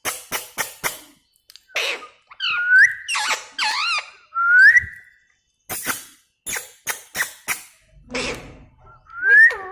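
Pet parrot whistling and clicking: runs of short, sharp clicks, with rising whistled notes from about two and a half to five seconds in, then more clicks and another rising whistle near the end.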